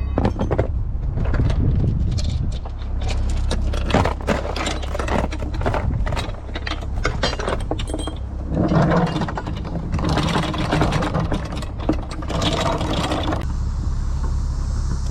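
Boat engine running at a steady low idle, under repeated knocks, clatter and scraping of lines and gear being handled on deck, busiest from about halfway through until near the end.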